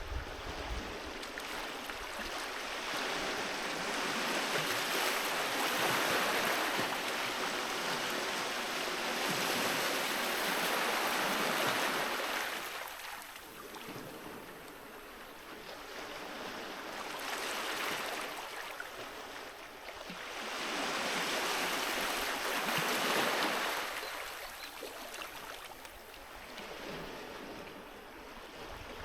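Sea waves washing onto a beach: a rushing hiss of surf that swells and ebbs in long surges several seconds apart.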